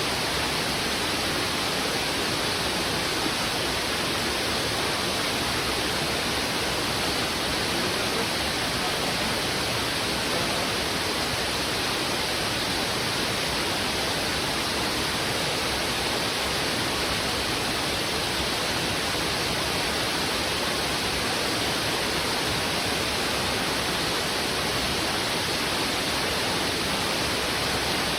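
Steady rush of a fast river flowing over rocks, an even unbroken roar of water with no single splashes standing out.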